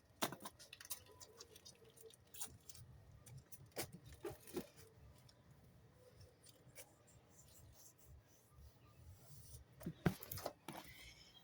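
Faint, irregular small clicks and taps from caged pet birds moving about and pecking, with a louder knock about ten seconds in.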